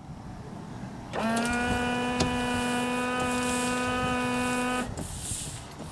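Windshield washer pump on a 1998 Corvette C5 running: a steady electric whine that starts about a second in, holds one pitch for nearly four seconds and cuts off, as the newly reconnected washer lines are tested.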